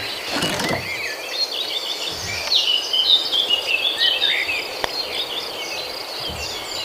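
Tropical forest ambience: a steady high drone of insects with many short bird chirps over it. A dull thump about half a second in and a single sharp click near the end of the fifth second.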